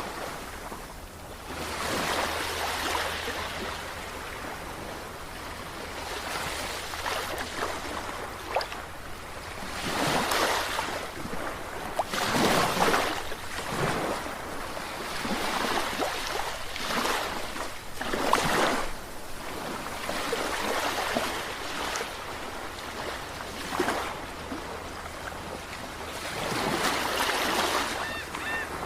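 Sea waves breaking and washing in, the rush swelling and falling every few seconds.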